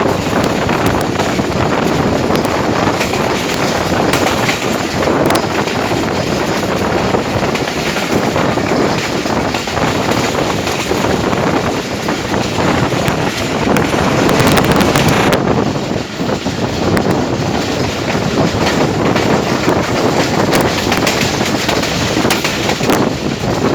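Passenger express train running through at speed: a steady loud rush of coaches' wheels on the rails, with faint clicks over the rail joints.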